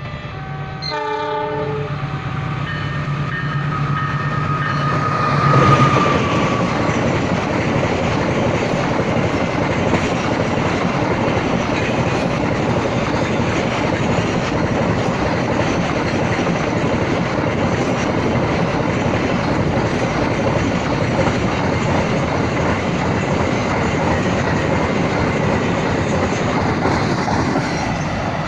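Freight train passing: the locomotive sounds its horn over the first few seconds, loudest about six seconds in, then a long steady rumble and clatter of wagons rolling by on the rails.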